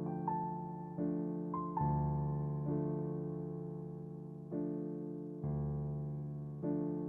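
Soft background piano music: slow chords struck about once a second, each fading away, with a few short higher notes in between.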